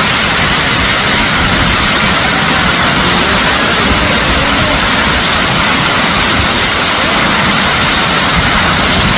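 Waterfall pouring, a loud steady rush of falling water close to the microphone.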